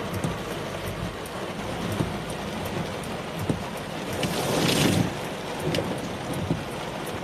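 Heavy rain falling steadily, with scattered drops ticking. About four seconds in comes a louder rushing swell that fades within a second.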